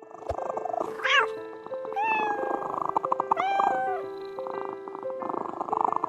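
Domestic cat meowing three times: a short wavering cry about a second in, then two longer drawn-out meows, over background music.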